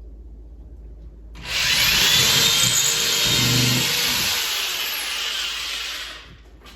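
Power drill running into the wall for about five seconds, putting in a replacement screw for a TV wall mount whose low screws had pulled loose.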